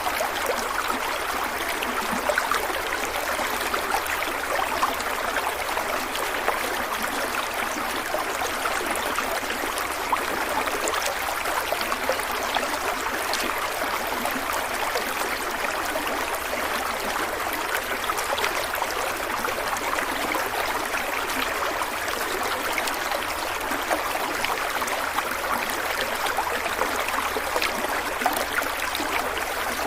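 Flowing stream of water running steadily over stones, with a constant bubbling and trickling.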